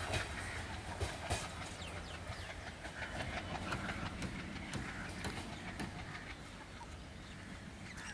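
Train wheels clattering over the rails of a railway bridge, a low rumble with many sharp clicks that slowly fades as the train draws away.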